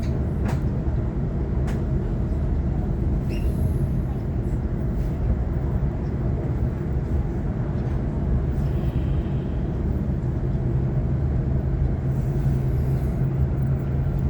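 A Sydney Trains Waratah B-set electric multiple unit running along the line, heard from inside the carriage: a steady low rumble of wheels on track. A steady low hum grows stronger about twelve seconds in.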